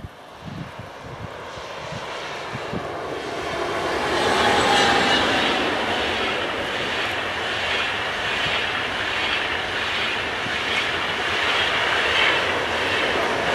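ICE high-speed electric train passing at speed: a rushing noise of wheels on rail and air that swells over the first four seconds, then holds steady and loud as the long line of coaches goes by.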